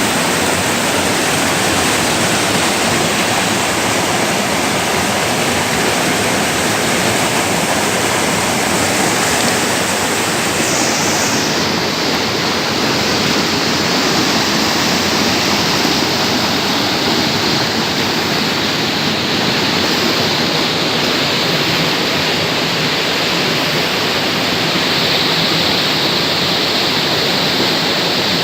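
Rushing water, a steady loud wash of noise with no breaks; the highest hiss thins a little about eleven seconds in.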